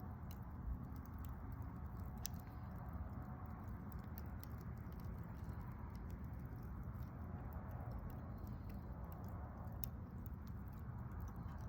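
Wood campfire burning, with scattered sharp crackles and pops of the wood over a steady low rush.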